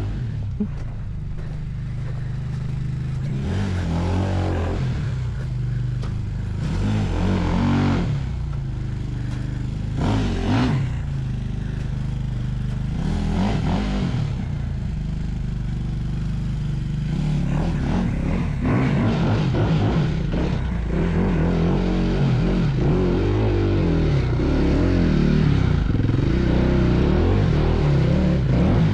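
Off-road motorcycle engine running under load on a dirt trail, its revs rising and falling again and again, with clattering and scraping from the bike over rough ground.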